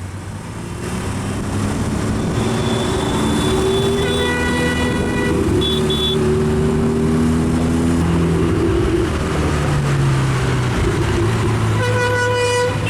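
Busy road traffic: engines running and gradually rising in pitch as vehicles pull away, with car horns honking a few seconds in and again near the end, and a short high double beep in between.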